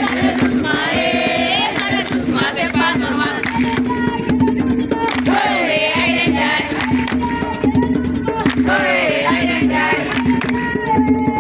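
A group of voices singing together over a steady beat of sharp percussive strikes.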